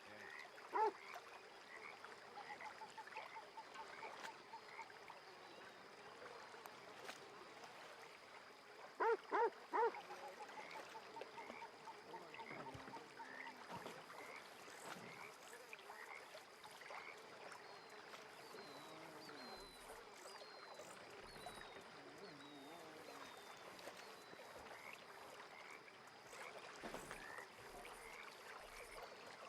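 Lakeside wildlife: frogs calling in steady repeated chirps and trills, with a waterfowl honking once about a second in and three times in quick succession around nine seconds in, the loudest sounds.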